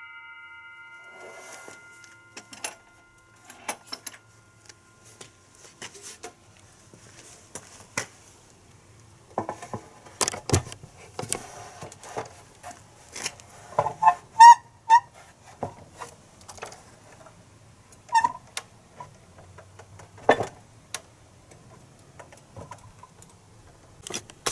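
A power saw's whine dies away at the start, then scattered knocks, clicks and clatter of boards and tools being handled on the bench, a few of them ringing briefly.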